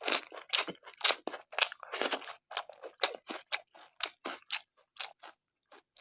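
A person chewing a mouthful of pork curry and rice, with wet smacking and crunching mouth sounds in a quick, even run of about three chews a second.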